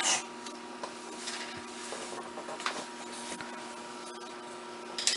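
Pencil scratching on paper as a child writes out a sentence in handwriting, with a few louder strokes, over a steady low electrical hum.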